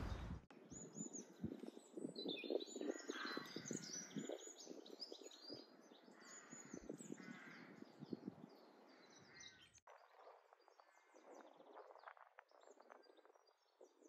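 Faint birdsong: small songbirds chirping and twittering in short high phrases, with a few soft low knocks. The sound drops suddenly quieter about ten seconds in, leaving fainter chirps.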